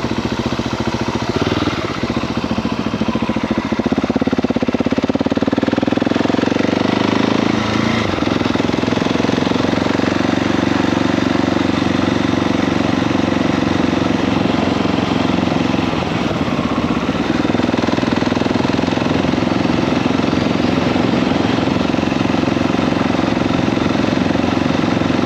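KTM 690 SMC R's single-cylinder engine running while riding: it climbs in revs over the first several seconds, drops sharply about eight seconds in as a gear change, then holds a fairly steady note.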